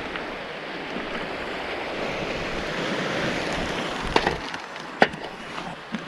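Waves washing onto a cobble beach, the surge swelling and falling back. Two sharp clicks stand out, about four and five seconds in.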